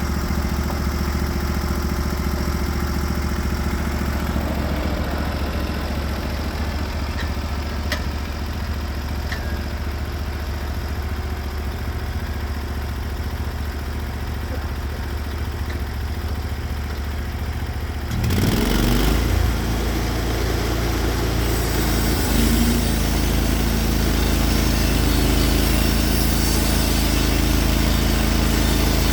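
Gas engine of a Norwood HD36v2 portable band sawmill running steadily; about two-thirds of the way through its note changes abruptly and it runs louder, as it comes under load with the blade cutting into the log.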